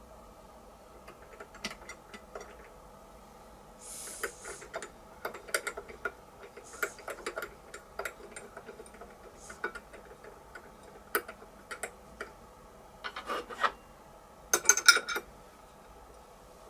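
Hand tapping a #4-40 thread in aluminium plate: irregular metallic clicks, ticks and short scrapes as the tap and tap wrench are turned and backed off, with a cluster of clicks near the end. A faint steady machine hum runs underneath.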